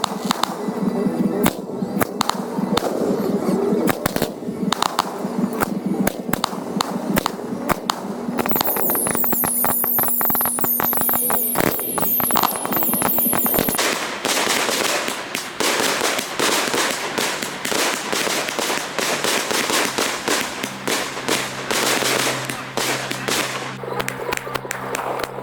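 Professional fireworks display: rapid bursts and crackling shells, with a spell of high whistling shells gliding up and down in the middle. From about halfway through there is a dense, continuous crackle over steady low tones.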